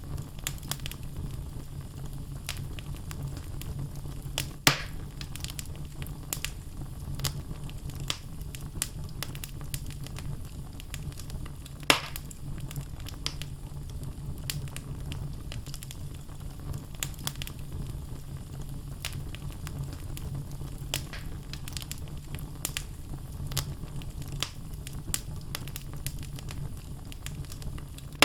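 Wood logs burning in a fireplace, crackling: many small crackles over a steady low rumble. Two louder pops stand out, one a few seconds in and one near the middle.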